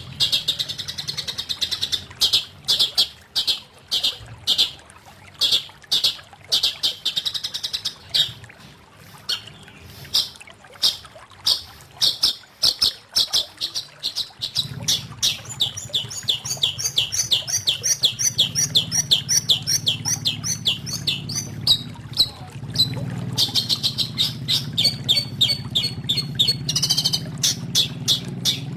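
Long-tailed shrike (cendet) singing: a long run of fast, harsh repeated notes and chatter, with a quicker trilling stretch in the middle. A low steady hum comes in about halfway through.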